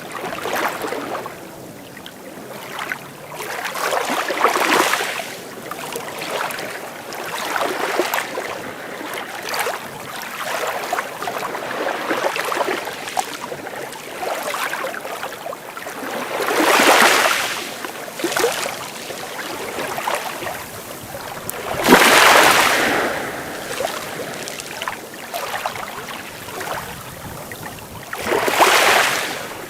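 Small sea waves breaking and washing on the shore, coming in a series of surges every few seconds, the three loudest in the second half.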